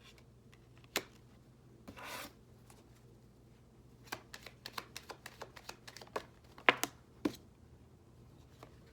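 Tarot cards being shuffled and handled: a single tap, a short swish of cards sliding, then a run of sharp card clicks from about four seconds in, the loudest near the end of the run.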